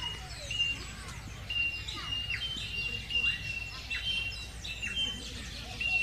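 Small birds chirping, a busy run of short high whistles and quick chirps, many overlapping, over a steady low background hum.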